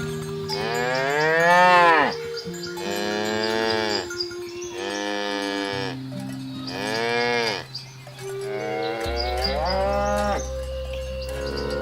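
Cows mooing repeatedly: about five drawn-out moos, each rising and then falling in pitch, a second or so apart.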